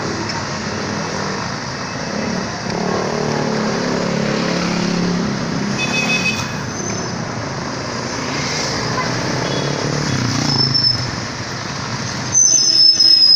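Road traffic: motor vehicles running and passing, a steady mix of engine rumble and road noise. Brief high, thin tones sound about halfway through, and a louder high-pitched tone in the last second is the loudest moment.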